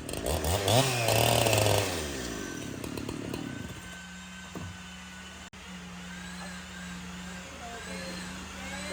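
Chainsaw engine revving up and down for about two seconds, then dying away into a steady low hum.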